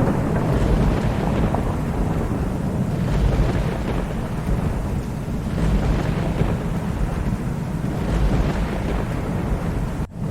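Continuous thunder rumbling low over steady rain, swelling and easing every few seconds. The sound cuts out for an instant near the end.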